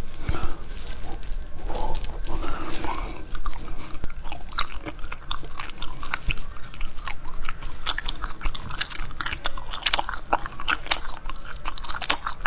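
Peach jelly being bitten and chewed: soft, squishy mouth sounds at first, then many sharp, wet clicks, coming thickly from about four seconds in.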